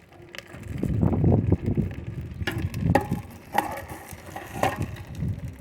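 Hot twisted railway spikes being quenched in canola oil to seal them: irregular sizzling and crackling, loudest a second or two in, followed by several sharp knocks.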